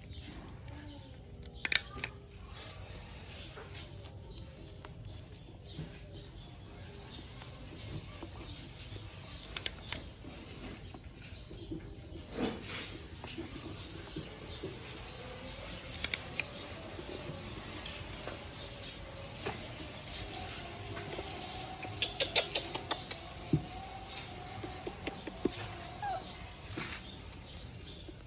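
Cricket chirping in long, high-pitched pulsed trills that stop and start every few seconds, with a few sharp clicks and knocks, several close together about three-quarters of the way through.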